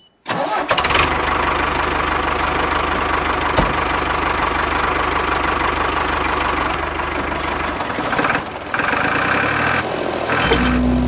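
Small motor of a miniature DIY model tractor running steadily after starting suddenly; the sound dips briefly about eight seconds in, then carries on.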